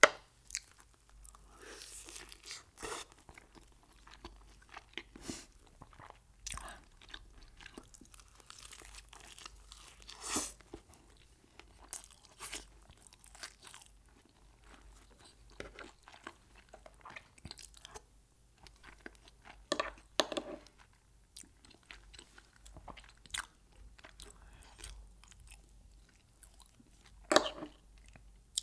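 Close-miked eating: crisp bites and crunchy chewing of Mexican food, irregular crackles throughout with a few louder bites.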